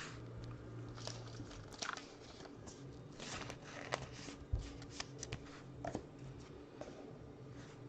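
Trading cards being handled: faint rustles, slides and small clicks at irregular moments.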